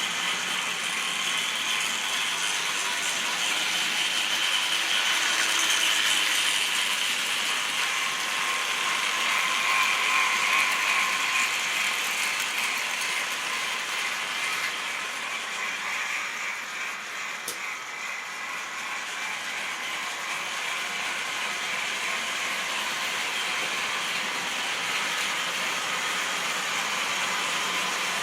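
Model railway train running on the track: a steady mechanical whirring and clattering of the small motor, gears and wheels, louder about a third of the way in and quieter a little past halfway.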